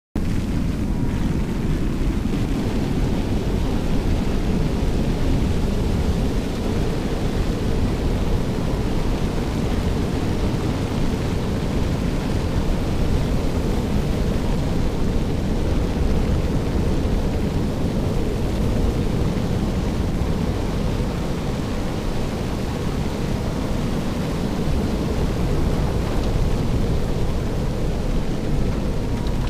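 Violent tornado winds blowing without letup: a loud, steady, deep rushing noise with no let-up or distinct events.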